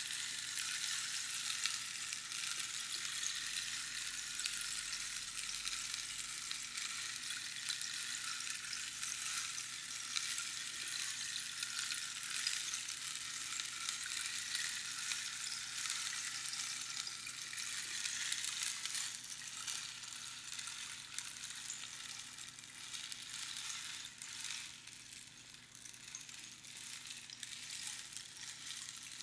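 Rainstick pouring: pebbles or beans trickling down past the pins inside a hollow cactus tube, a continuous dense patter like falling rain. The pour thins and softens in the last third as it runs out.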